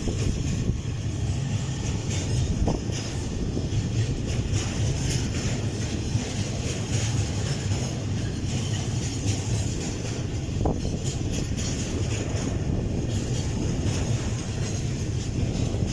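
Freight train running past: a steady rumble of wagons on the rails.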